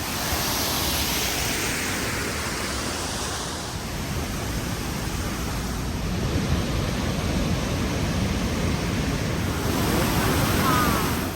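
Rhine Falls waterfall: a steady, dense rush of falling water, with faint voices near the end.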